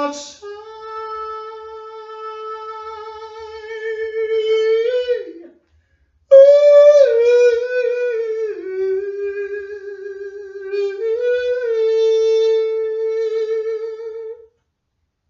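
A single voice singing long, wordless held notes in a high register with a slight waver. One note is held about five seconds and then breaks off; after a short gap a longer phrase starts higher, drops, and rises again before stopping near the end.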